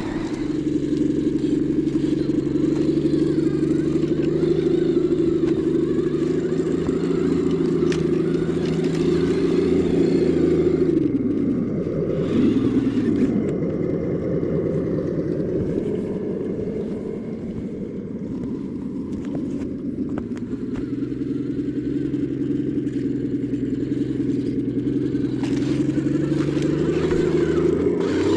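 Radio-controlled scale crawler truck's motor running steadily. Its pitch sags about halfway through and climbs back up a few seconds later.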